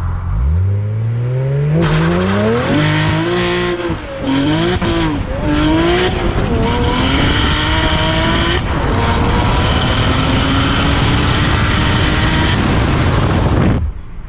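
Turbocharged straight-six of a modified BMW 335i at full throttle from a standstill, revs climbing repeatedly through the gears with brief dips at each shift, with a steady hiss over the engine note. The sound cuts off sharply near the end.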